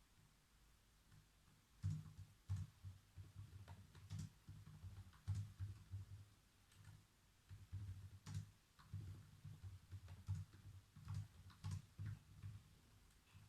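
Typing on a computer keyboard: irregular runs of soft key taps with dull thuds, starting about two seconds in and going on until near the end.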